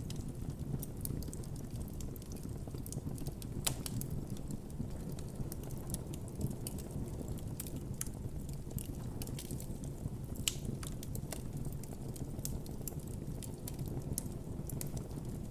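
Wood campfire burning with a steady low rumble of flames and frequent scattered crackles, with a couple of louder pops.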